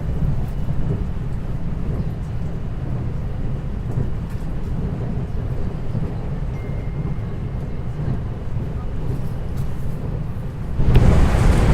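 Running sound inside a 521-series electric multiple unit's motor car: a steady low rumble of wheels on rail. About eleven seconds in it turns suddenly louder and harsher.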